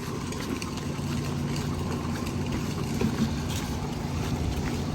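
A steady low engine drone with a faint hum under background noise.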